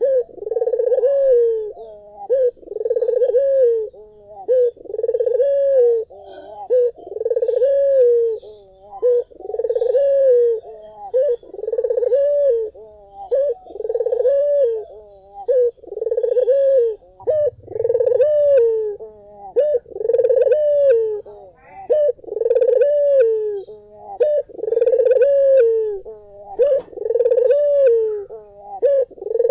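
Puter (domestic Barbary dove) cooing over and over, one rolling coo about every second with short gaps between.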